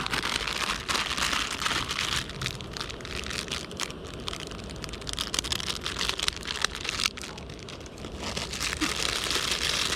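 Kettle of water coming to the boil on a camping stove: a steady hiss with many small crackles and pops from the heating water.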